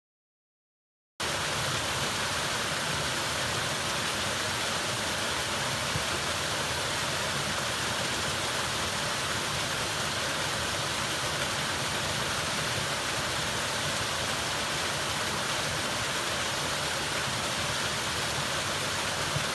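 Steady rushing of falling water, starting abruptly about a second in and cutting off abruptly near the end.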